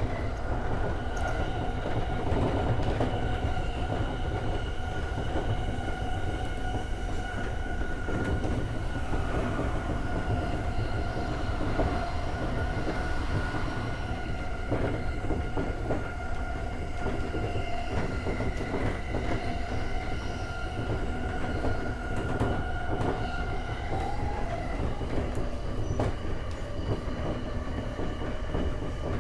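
JR East E231-series commuter train running along the track, heard from on board. There is a low rumble, a steady whine that fades out near the end, and frequent short clicks from the wheels on the rails.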